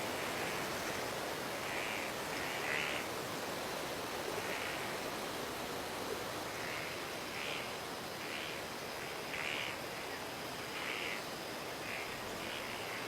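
Frogs calling at night: about a dozen short croaks at irregular intervals, roughly one a second, over a steady background hiss.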